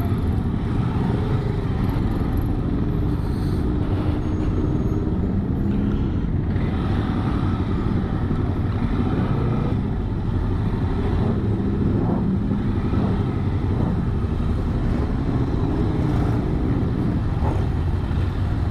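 Yamaha XT 600E single-cylinder motorcycle engine running at low riding speed, a steady low rumble whose pitch drifts slightly as the throttle changes.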